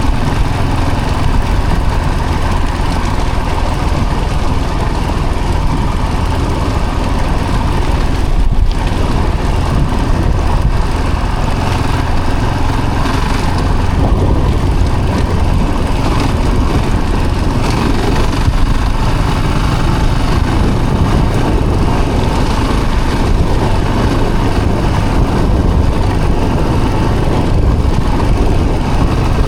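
A vehicle engine running steadily while driving, with continuous road and wind noise.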